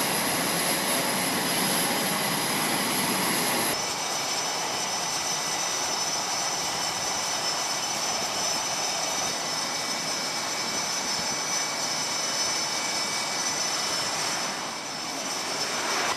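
F/A-18 Hornet jet engines running: a steady, loud jet roar with a high whine over it. The whine's pitch changes abruptly about four seconds in.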